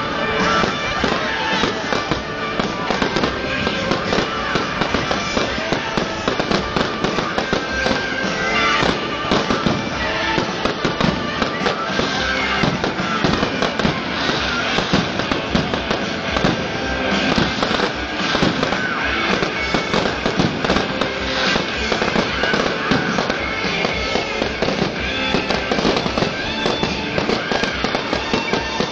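Fireworks going off in a dense, unbroken barrage of bangs and crackles, with music playing underneath.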